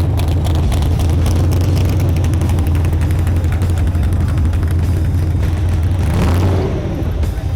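Car engine running steadily with a deep, rough exhaust note; near the end a falling sweep, then it cuts off.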